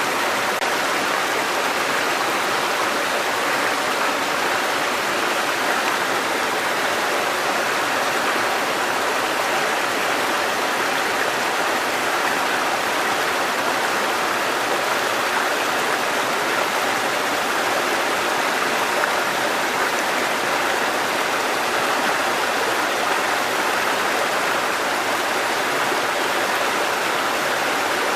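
Mountain stream cascading over rocks: a steady, even rush of falling water.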